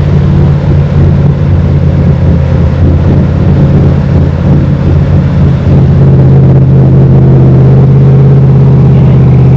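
Off-road 4x4 truck's engine running. It is uneven at first, then settles into a steady drone about six seconds in.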